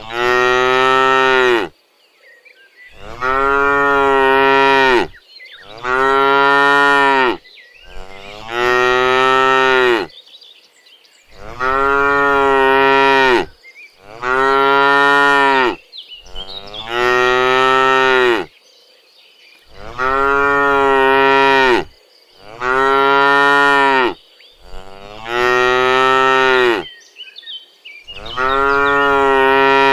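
Cows mooing: about eleven long, loud moos in a row, each lasting a second and a half to two seconds, with only short pauses between them.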